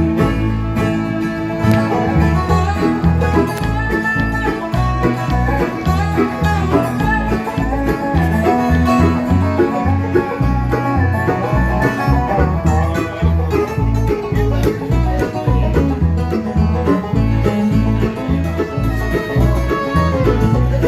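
Country band playing an instrumental break in the song, with quick plucked-string picking over a steady bass line.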